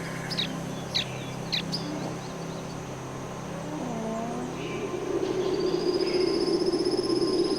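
Tropical forest wildlife sounds. First a bird gives sharp, falling call notes about twice a second. Then, from about five seconds in, a long, high, even trill sounds over a louder low buzz.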